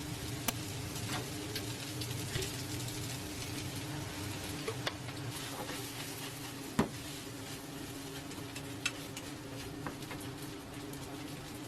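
Shrimp pad thai sizzling as it is stir-fried in a pan, with scattered sharp clicks of the utensil against the pan, one louder near the middle, over a steady low hum.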